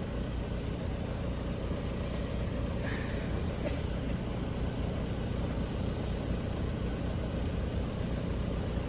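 Engine running steadily, a low even hum.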